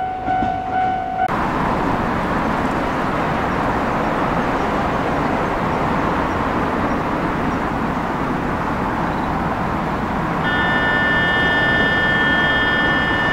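Electric train running through the station: a loud, steady rush of noise starts abruptly about a second in, and several steady high whining tones join it near the end.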